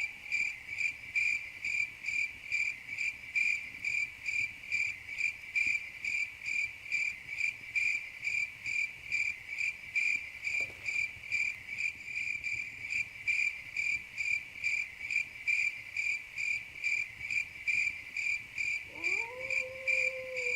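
Crickets chirping in an even, steady rhythm, about two and a half high chirps a second. Near the end a low call slides up and holds.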